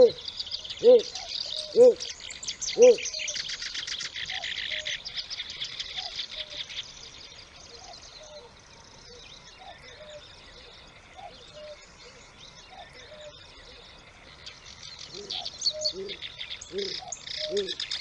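A series of short, pitched hooting bird calls about once a second: loud at first, faint through the middle, louder again near the end. Under them is a dense, high chirring chorus that fades after about seven seconds.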